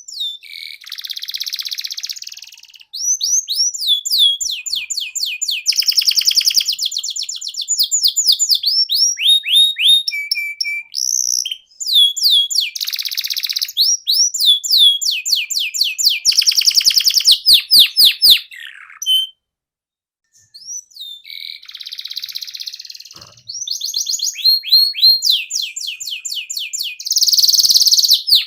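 Domestic canary singing a long song of rapid trills and runs of repeated whistled notes, each phrase at a different speed, with one short pause about two-thirds of the way through.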